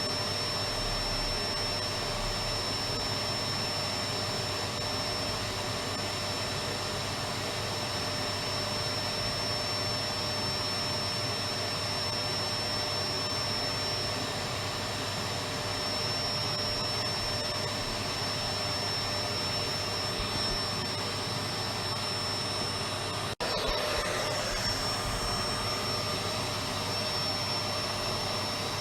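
Electric vacuum cleaner running steadily, a constant rushing noise with a high whine. The sound drops out for an instant about two-thirds of the way through, then carries on.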